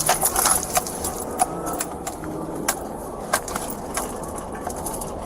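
Scattered short knocks and clicks over a steady low background rumble.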